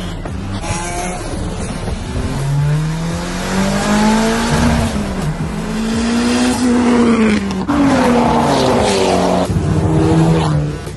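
Car engine revving hard, its pitch climbing and falling several times over and growing louder, then dropping away near the end.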